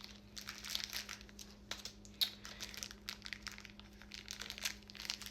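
Plastic bags crinkling and rustling as they are handled, in quick irregular crackles with a sharper one about two seconds in.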